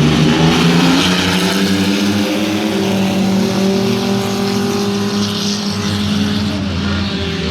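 Mini-truck race engines running together on the track, several engine notes overlapping and rising and falling gently as the trucks circle.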